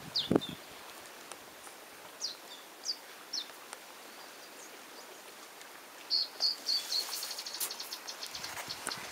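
Small birds calling with short, high, falling chirps every second or so, then a quicker run of chirps that turns into a fast, high ticking trill over the last three seconds. A single dull knock right at the start.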